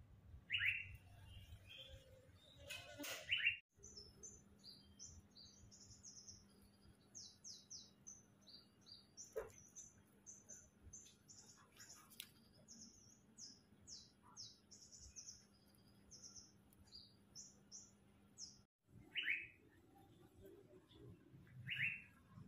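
Faint birdsong. A few louder, falling chirps come near the start and again near the end, and through the middle there is a quick run of many short, high chirps.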